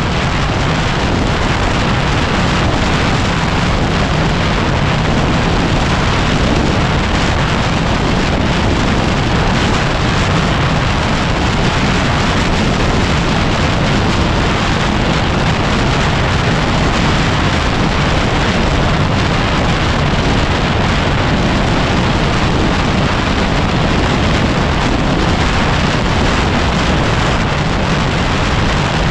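Heavy, steady wind buffeting on the microphone of a moving dirt bike, a 2010 Yamaha WR250R with a 250 cc single-cylinder four-stroke engine running underneath it.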